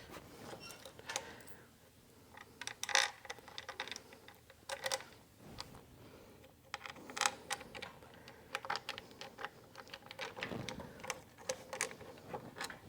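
Irregular light clicks, clinks and knocks of metal engine parts and hand tools being handled while a small-engine carburetor is fitted back on.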